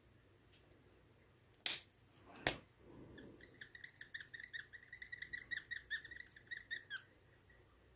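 Two sharp clicks, then a small bird chirping in a quick string of short high notes for about four seconds.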